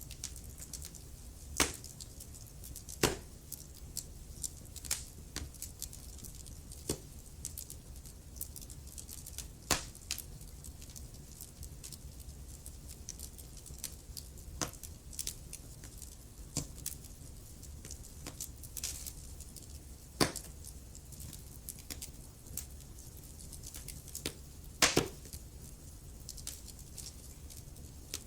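Wood fire burning in a fireplace: a steady low hiss and rumble, with irregular crackles and sharp pops from the burning logs.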